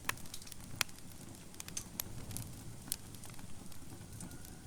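Wood fire crackling in a fireplace: irregular sharp pops and snaps over a low, steady rumble of the flames, with a few louder pops about a second apart near the start and one near three seconds in.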